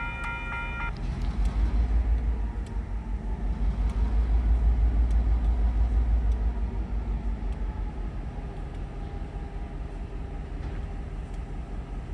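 A level-crossing bell ringing in quick repeated strokes stops about a second in. Then a deep rumble builds, is loudest for a few seconds mid-way and eases off, from the TasRail diesel locomotives 2054 and 2051 approaching the crossing.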